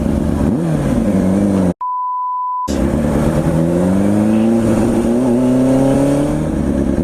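Kawasaki Ninja ZX-6R 636's inline-four engine running over wind rush, its pitch dropping and then levelling. A little under two seconds in, a one-second censor bleep replaces all other sound, then the engine pitch climbs slowly as the bike accelerates.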